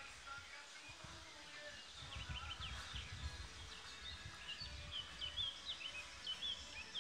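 Small birds chirping in short, quick notes, starting about two seconds in, over a low background rumble.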